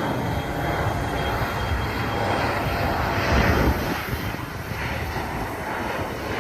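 Jet airliner engines running, heard as a steady rumble and roar that swells briefly around the middle.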